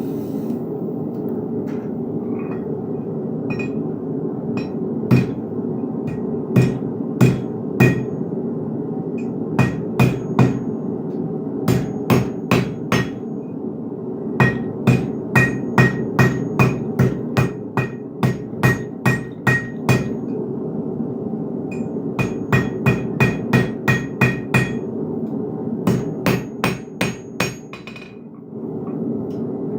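Hand hammer striking hot iron on an anvil in runs of several blows at about two a second, with short pauses between runs; each blow rings briefly. A steady low rush runs underneath.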